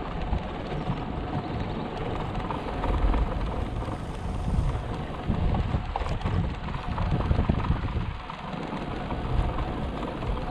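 Strong wind buffeting the microphone: a low rumble that swells and fades in gusts.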